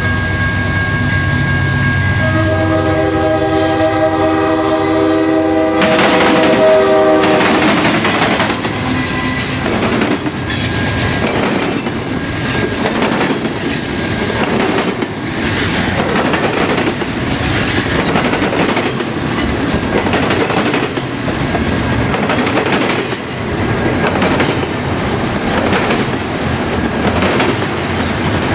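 Diesel freight locomotives' air horn blowing a chord for the grade crossing, held until it cuts off about seven seconds in as the engines pass close by. After that, double-stack container well cars roll past with a steady rhythmic clickety-clack of wheels over the rail joints and crossing.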